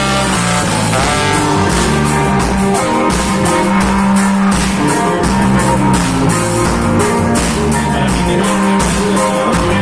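Reggae band music: electric bass, guitar and drum kit playing a steady beat, with no singing.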